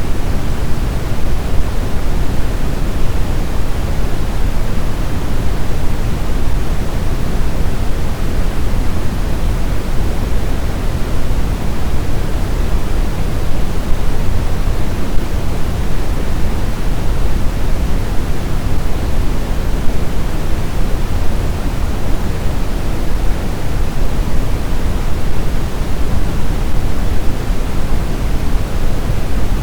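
Snowstorm wind blowing steadily, a dense even rush strongest in the low end, with no gusts or lulls.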